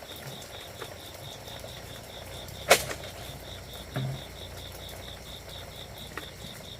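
Insects chirping in a steady, even pulse of about five to six beats a second. A sharp knock sounds a little before the middle, followed about a second later by a short dull thump.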